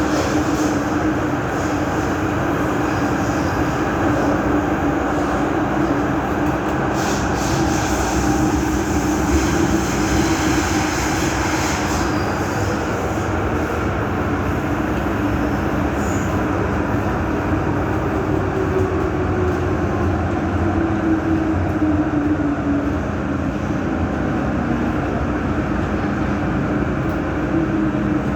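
MTR M-Train metro car running through an underground tunnel, heard from inside the car: steady rumble with a motor whine that falls in pitch over several seconds past the middle.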